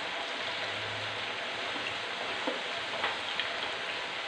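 Potato fries sizzling steadily in hot oil for their second, browning fry. A few faint clicks come a little past halfway as the fries are moved about with a slotted spatula.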